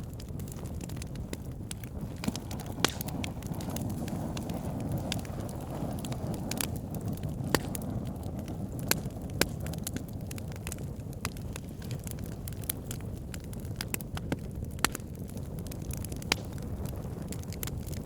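Wood fire burning with a steady low rumble, crackling and popping irregularly, with a few sharper pops standing out.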